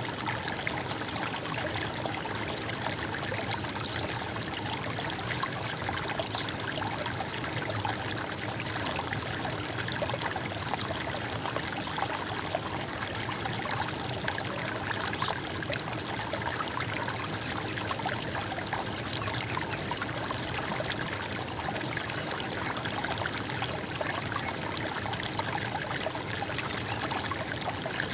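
Running water trickling and gurgling in a steady, unbroken flow.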